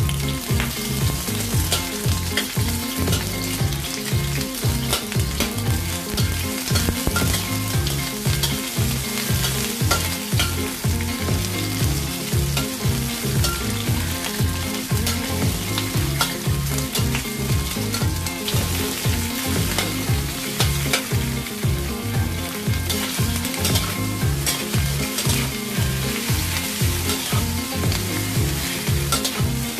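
Chopped onion, then onion and pieces of oxtail, sizzling in hot oil in a stainless steel wok while being stirred with a metal ladle.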